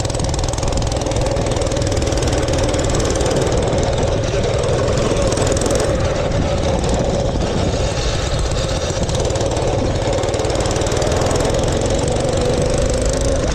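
Mini bike's small engine running at a steady pitch while riding, with a heavy low rumble underneath.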